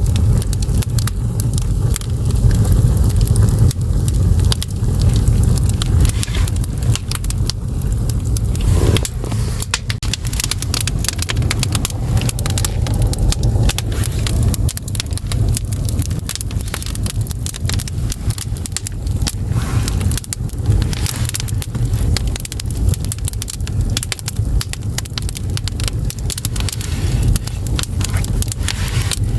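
Split firewood burning in an agungi, the stoke-hole of a Korean ondol furnace: irregular crackles and small pops over a steady low rumble.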